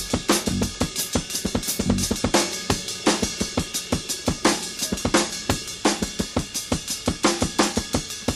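Rock drum kit played in a busy drum-led passage: rapid snare and bass drum strokes with cymbals and hi-hat, with little else of the band heard.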